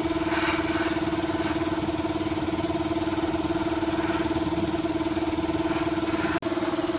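A small motor running at a steady speed, giving an even hum with a fast flutter. It cuts out for an instant and resumes near the end.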